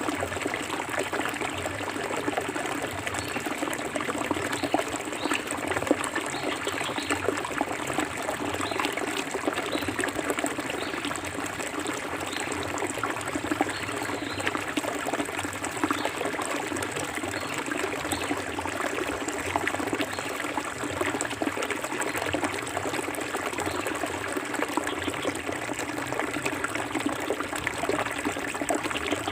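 Clear forest river flowing steadily, water trickling and splashing over stones in a constant babble.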